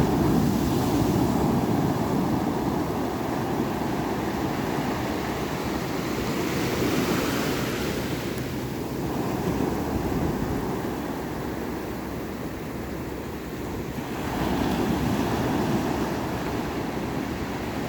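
Ocean waves breaking and washing on a shore in a continuous surf, swelling with a new wave at the start, again about seven seconds in and again near fifteen seconds, with some wind on the microphone.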